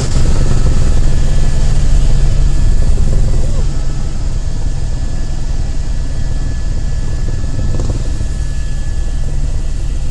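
Helicopter running in flight: a loud, steady low drone with a rapid rotor beat, easing slightly a few seconds in. Faint voices underneath.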